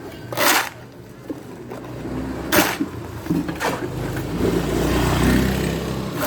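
An engine running, growing louder over the middle few seconds, with a few short hissing bursts on top.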